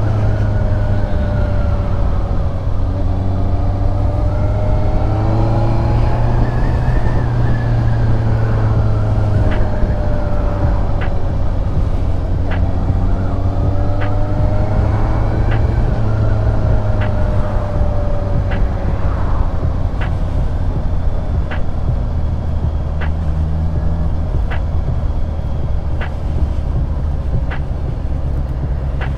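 Honda CBR650R's inline-four engine running during its break-in, heard from the rider's position with wind and road noise; the engine pitch rises and falls with the throttle. From about a third of the way in, a faint short click repeats about every one and a half seconds.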